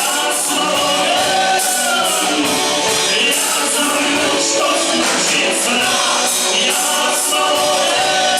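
Live band playing a song with singing, sustained sung notes over a steady beat with regular cymbal strokes.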